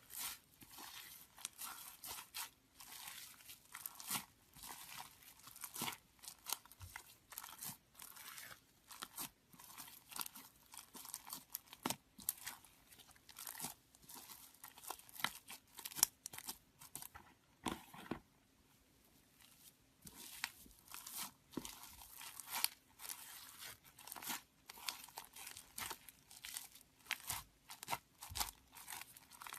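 Slime being squeezed and pressed by hand, giving a dense run of crackling, crunchy clicks, with a short lull a little past the middle.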